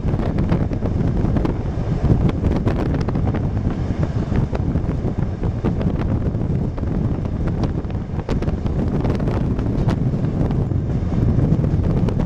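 Passenger train running at speed, heard from on board: a steady low rumble with wind buffeting the camera microphone and scattered irregular clicks and knocks.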